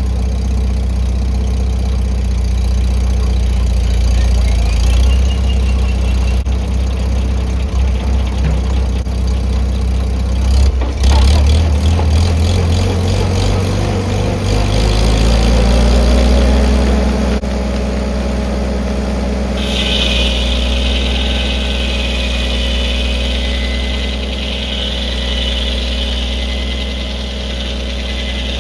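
A 1952 Farmall H's four-cylinder engine runs steadily, driving a sawmill on a freshly adjusted carburetor. It picks up speed about halfway through, rising in pitch, and a higher whine joins about two-thirds through.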